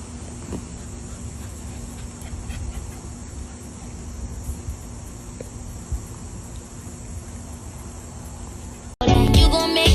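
Steady high insect trilling, like crickets, over a faint low hum with a few light knocks. About nine seconds in it cuts off abruptly and loud pop music with singing starts.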